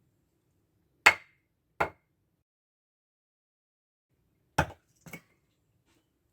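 Axe striking firewood in log splitting: four sharp chops in two pairs, one pair about a second in and the other near the end, the first blow the loudest.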